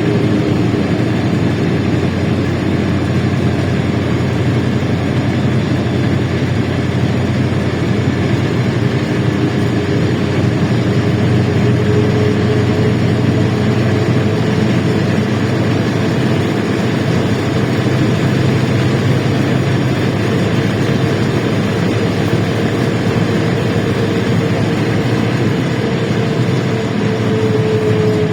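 LiAZ-677M bus under way, heard from inside: its V8 petrol engine running with a steady drone and road noise. A thin whine climbs slowly in pitch and then drops near the end as the bus changes speed.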